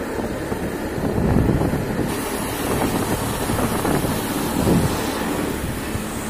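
Truck engine rumbling steadily, with wind buffeting the microphone.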